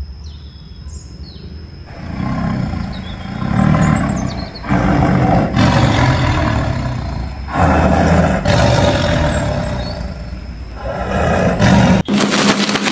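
A tiger roaring in several long, loud bouts, beginning about two seconds in after a quiet start with faint bird chirps. Near the end it cuts off abruptly and a different rapidly pulsing sound starts.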